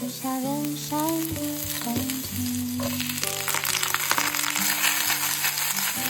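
Green vegetables sizzling as they are stir-fried in hot oil in a pan, the sizzle growing louder about three seconds in. Background music plays over it.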